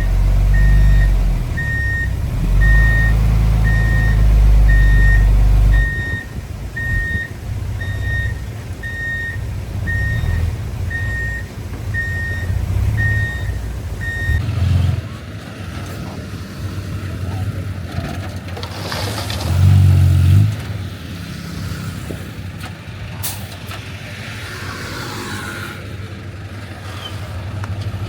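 Back-up alarm on heavy earthmoving equipment beeping about one and a half times a second over the low rumble of a diesel engine. The beeping stops about halfway through, and the engine swells briefly a little later.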